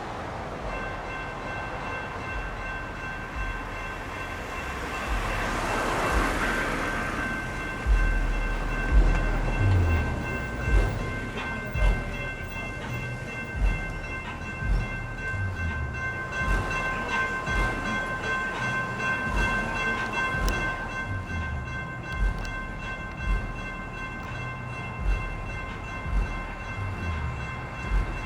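Crossing signals' electronic bells ringing steadily as a three-car CAF light rail train passes over the grade crossing. Its wheels thump heavily over the crossing and rail joints from about eight seconds in, loudest in the first few seconds, after a rush of noise that swells and fades about six seconds in.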